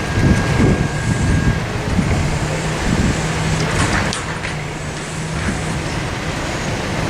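CSX freight train passing close by: a steady rumble of the train on the rails, with a low engine tone that comes and goes and a few short knocks.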